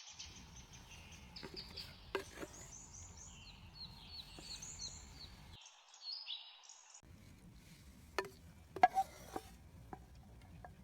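Birds singing in series of short, repeated high notes over a low outdoor hum. Near the end come a few sharp knocks.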